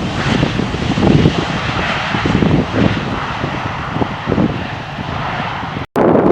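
Jet airliner's engines running as it passes on its landing approach, with strong gusty wind buffeting the microphone. The sound cuts out abruptly just before the end, and a louder wind rumble follows.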